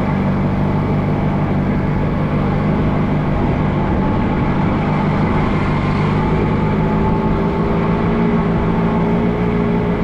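Allis-Chalmers G tractor's small four-cylinder gasoline engine running steadily. The owner suspects its carburetor is gummed up from stale gas after sitting since summer.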